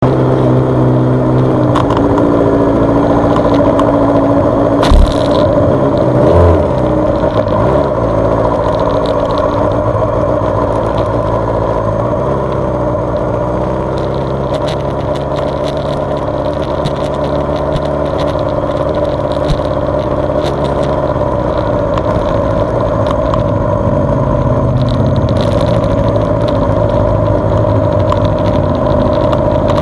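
Suzuki GSX-R600's inline-four engine running, its pitch rising and falling again and again as the revs change. A sharp knock about five seconds in and another about a second and a half later.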